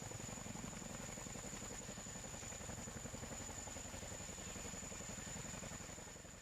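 Faint helicopter engine and rotor noise, a steady rapid throbbing with a thin high whine, fading out near the end.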